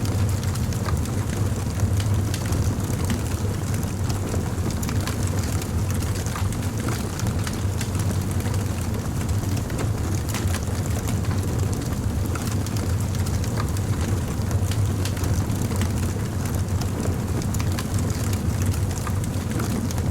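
Crackling fire: many small irregular pops and crackles over a steady low rumble.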